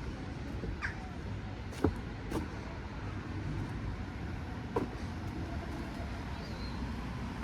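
Town street ambience: a steady low rumble of traffic, with a few sharp clicks or knocks, two close together about two seconds in and one near five seconds.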